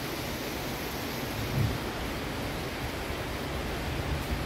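Steady rain falling, an even hiss, with low rumbling from wind on the microphone that swells briefly about one and a half seconds in.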